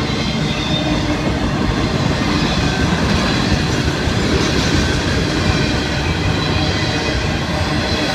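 Florida East Coast Railway freight train's cars (autoracks, tank cars and covered hoppers) rolling past, a loud, steady noise of wheels on rail.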